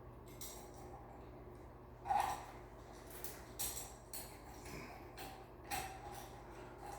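Light clatter and scraping of small hard objects being handled, with several short knocks, the loudest about two seconds in, over a steady low hum.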